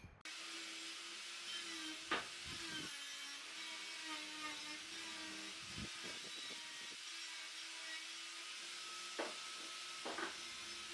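An electric power tool running steadily at a distance, its motor giving a held hum with hiss, with a few short knocks of wood.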